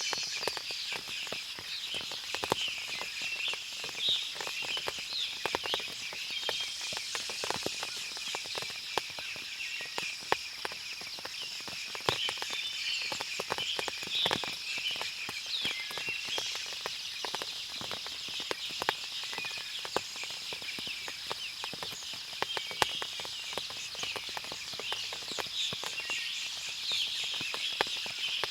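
Forest ambience after rain: water dripping from the trees makes a dense scatter of small ticks and taps. Birds chirp over it, and a steady high hiss runs underneath.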